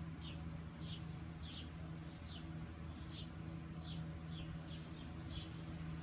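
A small bird chirping over and over, short high chirps about one and a half a second, over a steady low hum.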